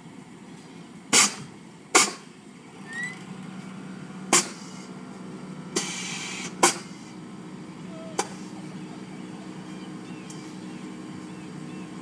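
About five loud, sharp bangs at irregular intervals over a steady low hum.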